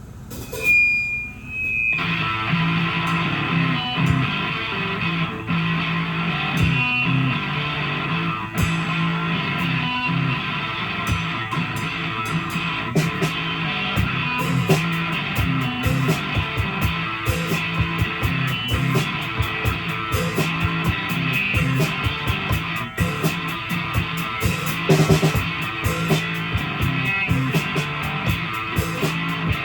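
Live rock band playing an instrumental passage led by electric guitar, with bass and an even beat. A brief high steady tone sounds at the start, and the full band comes in about two seconds in.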